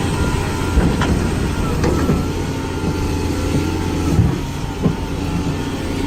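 A heavy vehicle's engine running steadily, with a few sharp knocks and clunks over it.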